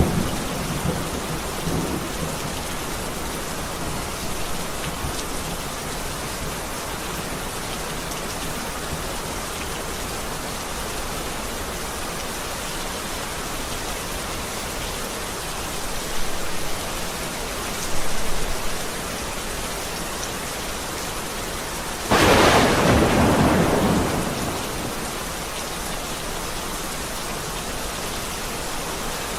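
Heavy, steady rain with thunder: a rumble fading out at the start, short rumbles around the middle, and a sudden loud thunderclap about three quarters of the way through that rolls away over a couple of seconds.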